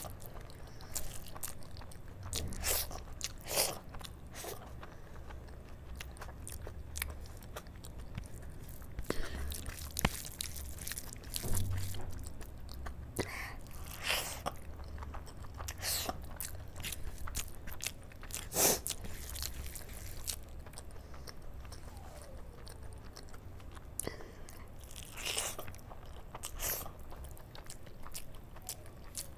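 Close-up chewing and wet mouth smacking as handfuls of rice mixed with pakoda kadhi are eaten by hand, with irregular sharp smacks and clicks scattered throughout.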